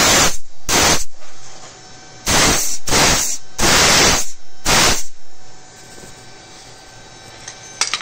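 Six short bursts of loud hissing noise, each about half a second long and cut off sharply, over a faint steady hum. The first two come close together near the start, and four more follow from about two seconds in.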